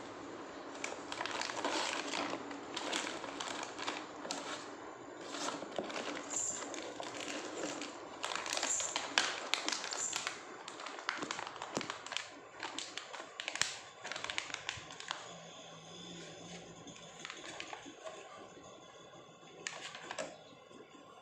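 A parcel being opened by hand: a string of rustles, crinkles and sharp clicks of plastic and cardboard packaging, thinning out over the last third.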